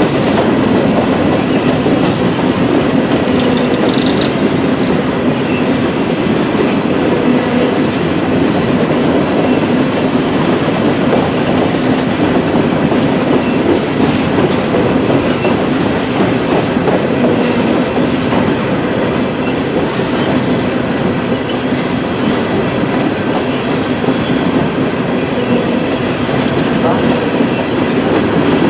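A freight train of empty coal hopper cars rolling past, its steel wheels running steadily over the rails.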